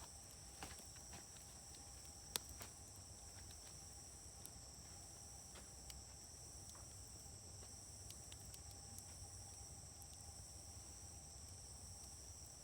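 Wood fire burning in a fire grill, giving scattered crackles and pops, with one sharp pop about two and a half seconds in. Steady, high-pitched insect chirring, typical of crickets, runs under it throughout.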